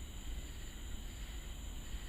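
Evening storm ambience: a steady low rumble with a faint, even high-pitched insect drone over it, between thunder claps.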